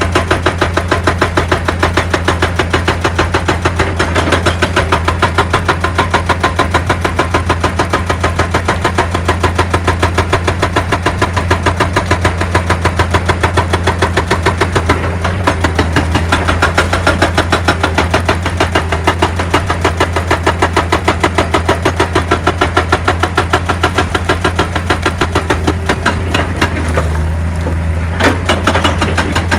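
Excavator-mounted hydraulic rock breaker hammering stone in a rapid, steady run of blows over the machine's running diesel engine. The hammering stops for about a second near the end and then starts again.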